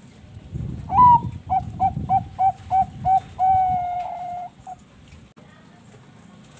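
A Bangkok-strain zebra dove (perkutut) singing one song phrase: an opening note, a quick run of about seven short cooing notes, then one long held note and a last short note.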